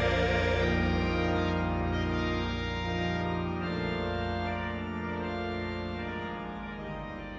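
Organ music holding sustained chords, fading out gradually.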